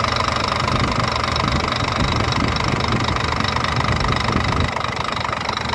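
Scania mixer truck's diesel engine idling steadily, an idle the technician calls very good, with the stuck solenoid valve on injector number 3 no longer upsetting it.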